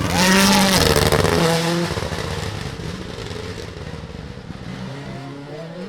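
A rally car passes close at speed, its engine revving with the note rising and falling. It is loudest in the first second or so, then fades as the car drives away.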